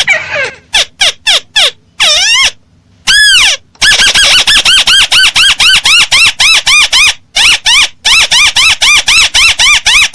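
Crake (burung tikusan) lure call. A few drawn-out sliding notes come first, then from about four seconds a rapid, even series of short arched notes, about five a second, broken once by a brief pause.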